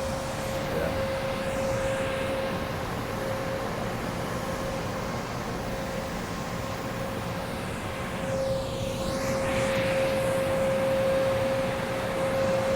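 Steady outdoor traffic noise with a steady mid-pitched hum, swelling as a vehicle passes about eight seconds in.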